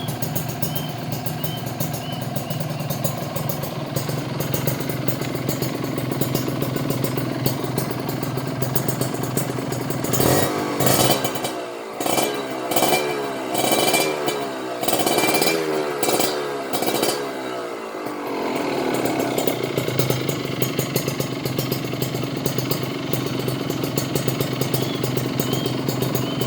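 Kawasaki Ninja RR two-stroke single-cylinder motorcycle engine idling through an aftermarket exhaust. About ten seconds in it is given a run of short throttle blips, each revving up and falling back. It then settles back to a steady idle.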